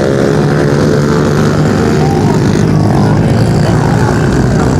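Several pit bike engines running hard in a race, revving up and down with their pitch rising and falling.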